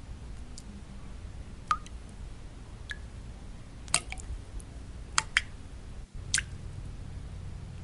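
Single water drops falling and plinking, about six in all at uneven intervals, some with a short ringing tone. Underneath runs a steady low-pitched noise.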